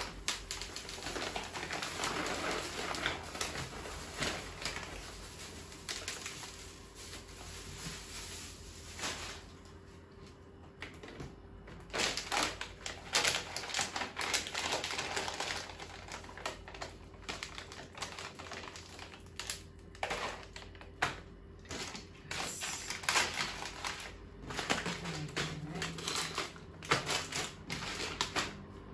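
Dry food being poured and scooped into plastic storage containers: a rapid patter of clicks from the grains on plastic, with packet rustling and knocks of containers being handled.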